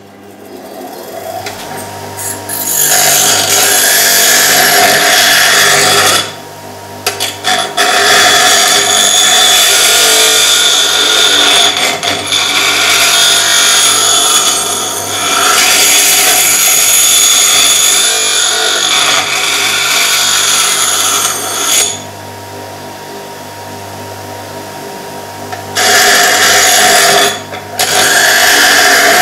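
Power grinder running steadily and grinding the rough edges off cut pieces of steel flat bar, the harsh grinding noise coming in long stretches. It drops out twice, from about 6 to 8 seconds and from about 22 to 26 seconds, when the steel is lifted off and only the motor's hum is left.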